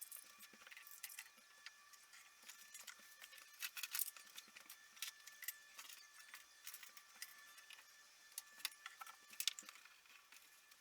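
Faint, irregular clicking and rattling of small hard pieces being handled, as 00 gauge model railway track sections are taken apart and rearranged, with a few sharper clicks around four seconds and near the end.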